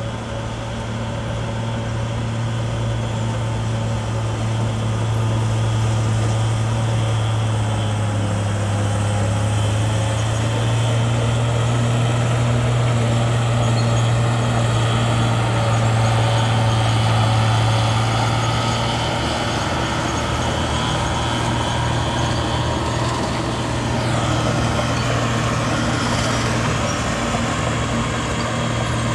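Bulldozer's diesel engine running steadily with a deep drone, getting a little louder over the first few seconds.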